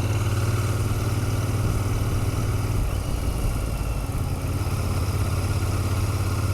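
Royal Enfield Continental GT650's 650 cc parallel-twin engine running steadily at low speed with a low, even note, the bike held back in slow traffic.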